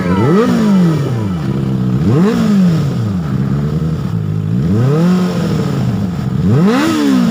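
Benelli TNT 600i inline-four motorcycle engine with a Two Brothers exhaust canister, blipped four times: each rev rises and falls back toward idle, about two seconds apart.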